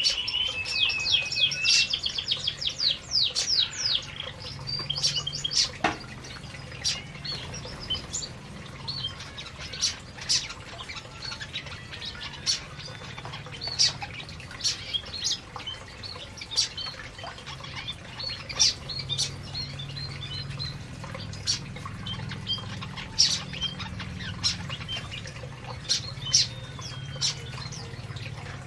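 Canaries calling: a rapid trill of sharp high notes at the start, then scattered short chirps and clicks, with a faint low hum behind.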